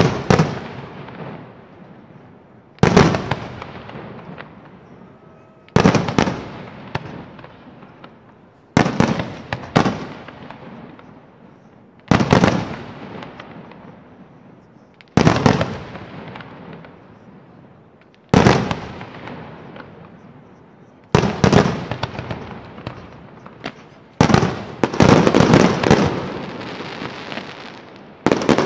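Aerial firework shells bursting with loud, sharp bangs about every three seconds, each followed by a rolling echo that dies away. Near the end a quicker run of several bangs and crackle follows.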